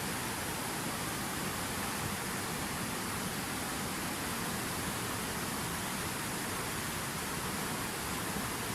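Water from a fountain waterfall pouring and splashing, a steady even hiss that never changes or breaks.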